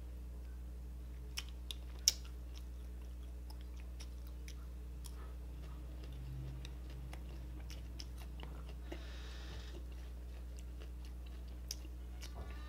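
Close-miked chewing of grilled chicken intestine on a skewer, with scattered wet mouth clicks, the sharpest about two seconds in, over a steady low hum.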